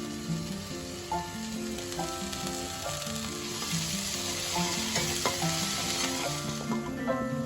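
Food sizzling in hot oil in a pan while it is stirred, the sizzle swelling in the middle. A melody of background music plays throughout.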